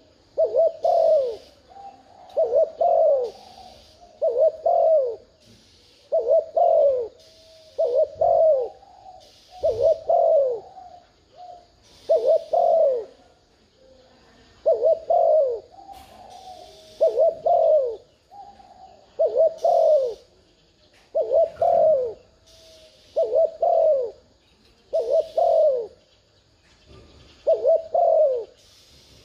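Spotted dove cooing: a steady series of loud, low coo phrases, one roughly every two seconds, each made of a couple of quick notes that slide downward. This is the bobbing courtship or territorial coo ('thúc gù') that is used as a lure call to bring wild doves in to call back.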